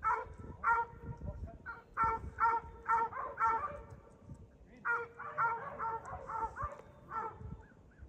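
A dog barking in two runs of quick, evenly spaced barks, about two a second, with a short pause between the runs.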